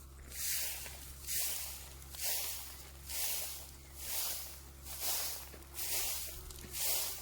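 Rhythmic swishing strokes, about one a second, each a bright hiss that swells and fades, over a steady low hum.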